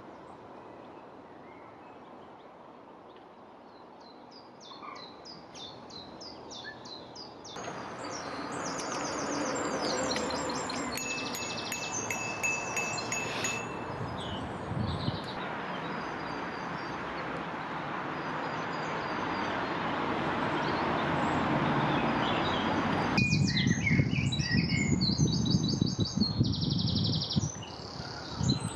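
Songbirds singing: runs of short, rapidly repeated high notes and trills, over a steady rushing hiss that grows abruptly louder about seven seconds in.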